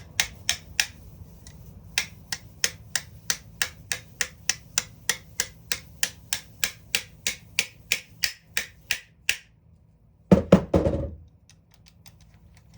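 Sharp, evenly spaced clicks from a power tool's reassembled head being worked by hand, about three a second. They stop about nine seconds in, and a louder clatter of parts follows about a second later.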